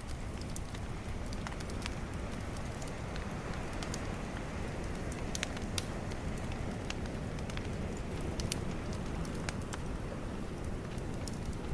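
Bonfire crackling, with scattered sharp pops and snaps over a steady low rush of ocean waves.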